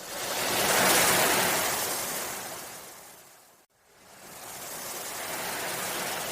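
Sea waves washing in, in two swells: a strong one that peaks about a second in and slowly fades, cutting off abruptly near the middle, then a softer wave that builds and fades again.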